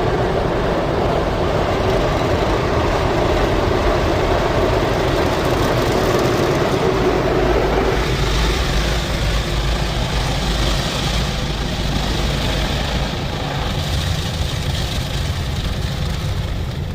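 Rotating wash brushes of a WashTec SoftCare SE rollover car wash scrubbing over the car during the final brush pass, a steady rumble and slapping mixed with water spray and machine motors, heard from inside the car. About halfway through, a higher hiss grows louder.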